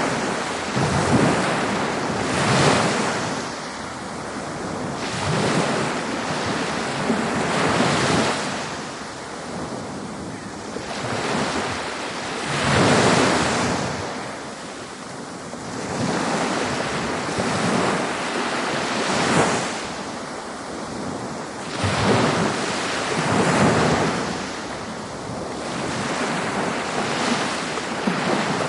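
Ocean waves breaking on a beach, one after another. Each wave swells up to a crash and then washes back, every two to three seconds, over a steady hiss of surf.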